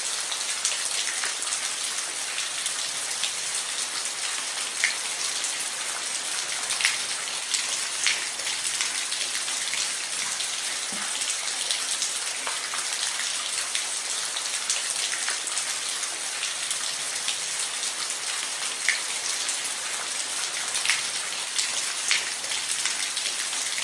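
Steady rain falling on a roof: a constant hiss with scattered individual drops ticking sharply on the surface.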